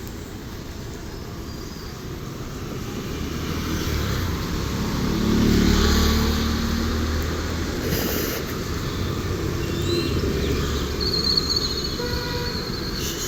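Road traffic: a motor vehicle passes close by, its engine and tyre noise swelling to a peak about five to six seconds in and then fading.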